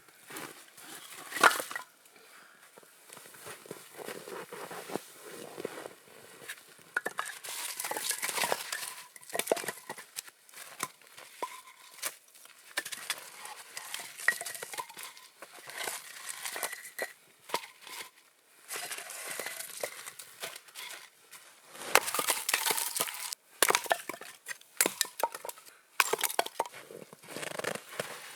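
Irregular crunching and crackling, as of something being handled and broken, with a sharp snap about a second and a half in and a denser run of crunches near the end.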